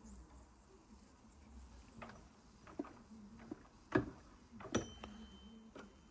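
Light metal clinks and knocks from handling a Wilesco D32 model steam engine while it is being oiled, about six of them, the loudest about four seconds in, with a faint ringing after the one near five seconds. A faint steady hum runs underneath.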